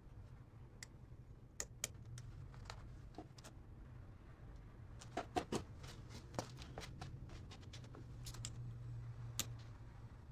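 Scattered light clicks and taps of small parts and hand tools being handled, with a cluster of sharper clicks about five seconds in, over a low steady hum.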